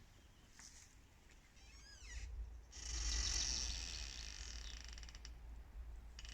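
Trees creaking as they sway: a short wavering creak about two seconds in, then a long, high-pitched creak that is loudest about three seconds in, and another starting near the end, over a low rumble.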